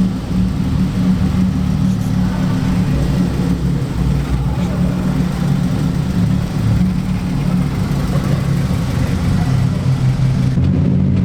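A modified car's engine and exhaust running at low revs as it moves slowly, a steady deep drone.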